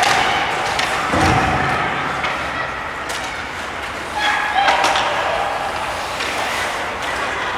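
Ice hockey arena during play: spectators' voices calling out over a steady din, with sharp clacks of sticks and puck and a heavy thud, like a body or puck hitting the boards, about a second in.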